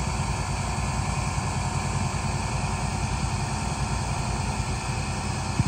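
1986 Pontiac Parisienne's engine idling steadily, a continuous low rumble with a constant hiss over it.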